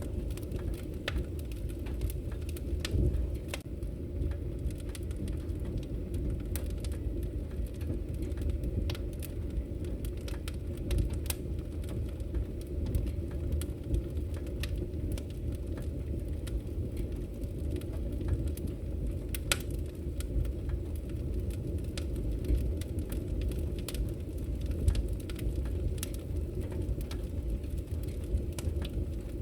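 Wood fire crackling in a fireplace: many small sharp pops and snaps at irregular intervals over a steady low rumble of burning.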